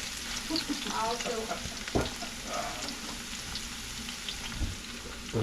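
Garlic, onion, curry leaf and hot peppers sizzling in hot oil in a pot as they are stirred, with a single knock about two seconds in.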